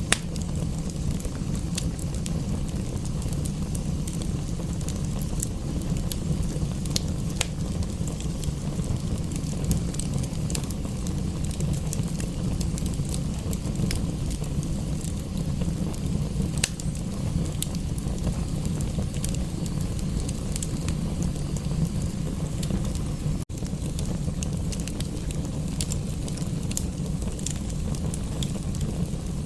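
Wood fire crackling in a fireplace: scattered sharp pops and snaps over a steady low rumble, with a momentary break about two-thirds of the way through.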